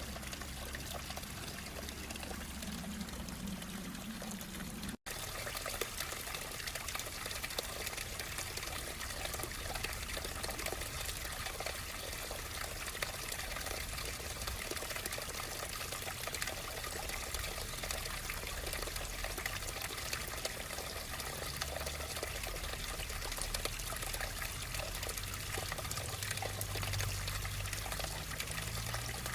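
Water flowing and trickling steadily, a constant splashing hiss. It cuts out for an instant about five seconds in and resumes slightly brighter.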